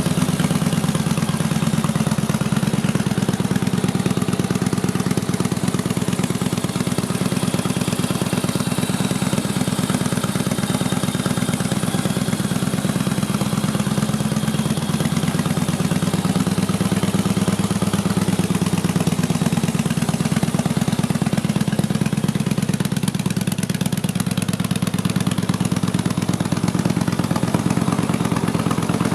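Victory Hammer S's 1731cc V-twin engine idling steadily through aftermarket Freedom Performance exhaust pipes, an even low pulsing that holds without revving.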